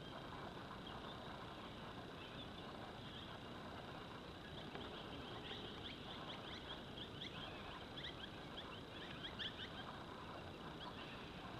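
Birds chattering in the trees, many short high chirps in quick succession, loudest in the middle of the stretch, over a steady faint background hiss.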